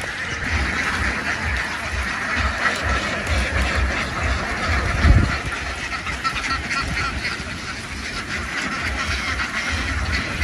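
A large flock of farm ducks quacking all at once in a dense, continuous din. About halfway through there is a single low thump, the loudest moment.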